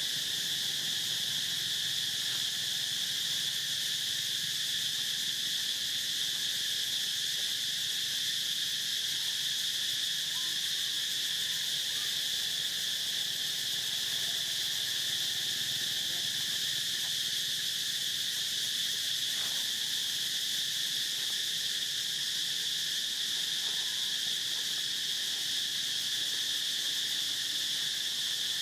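Steady, unbroken high-pitched insect chorus, one shrill, even tone with a fainter lower one beneath it.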